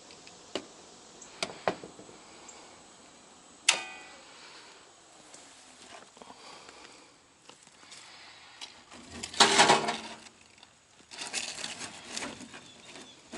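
Small metal parts and tools being handled while a breaker is worked on: scattered clicks, one sharp metallic clink with a brief ring about four seconds in, and a louder rattling clatter around nine to ten seconds in.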